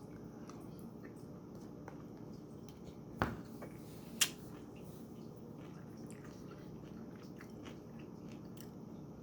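Quiet room tone with faint mouth sounds of eating, and two short sharp clicks, one a little over three seconds in and one about a second later.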